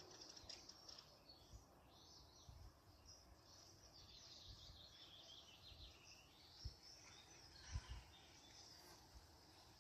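Faint birdsong, chirps and trills from small birds running throughout, with two brief low thuds about two-thirds of the way through.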